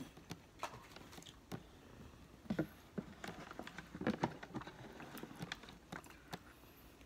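Close-up chewing and lip smacking of a person eating: faint, irregular wet smacks and small clicks, a little louder about two and a half seconds in and again around four seconds in.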